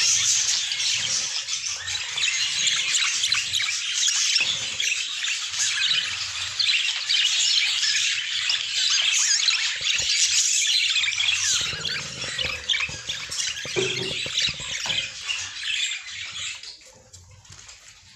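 A flock of budgerigars chattering without a break, dying down near the end.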